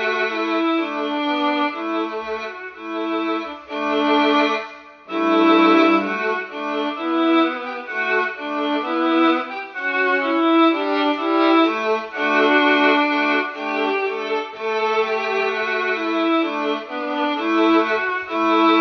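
Violin playing a melody of sustained notes, with a brief break about five seconds in.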